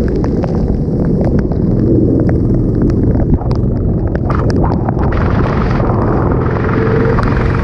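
Loud rumbling wind buffeting on the microphone over a running go-kart engine, with many short crackles throughout and a steady engine tone coming in near the end.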